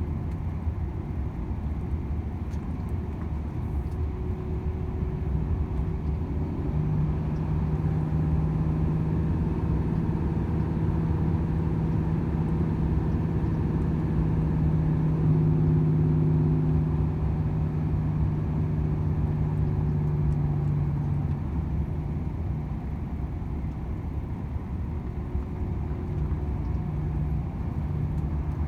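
Volvo FH 500 truck's 13-litre inline-six diesel droning while driving, over a steady rumble of tyres and road. A steady engine hum comes in about a quarter of the way through and fades about three-quarters through.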